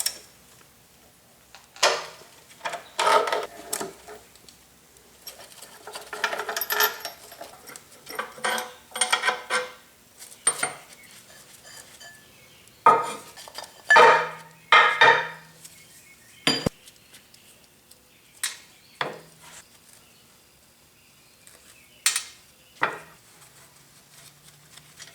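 Loose metal parts and tools clinking and clanking as they are handled and set down while a planer is being taken apart. The knocks and short rattles come irregularly, in bunches, with the loudest clanks about 13 to 15 seconds in.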